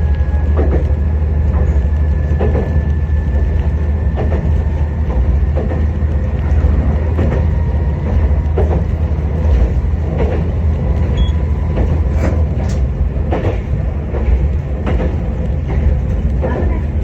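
Tarumi Railway Haimo 295-617 diesel railcar running along the line, a steady low rumble from engine and wheels with repeated clacks of the wheels over rail joints.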